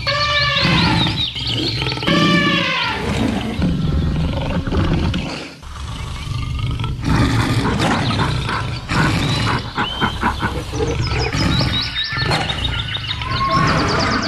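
Layered jungle sound-effect mix of wild animal calls and roars: two long cries that rise and fall in pitch in the first three seconds, then rapid chattering and high thin calls over a steady low rumble.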